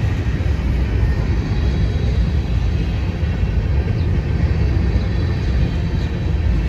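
A train rolling past at close range: a steady, loud rumble of wheels on rail, with a faint high steady squeal above it.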